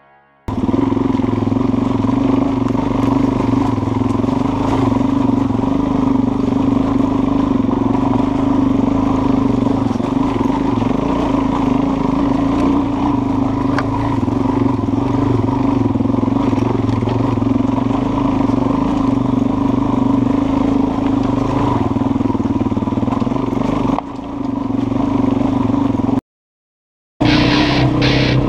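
Dirt bike engine running at a steady speed, heard from on board over a rush of wind and rattle noise. The sound dips about 24 seconds in and breaks off for about a second near the end.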